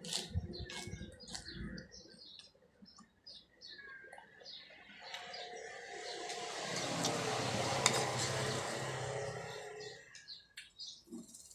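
Small birds chirping repeatedly in short high calls. For a few seconds in the middle, a steady noise with a low hum swells up under them and then fades.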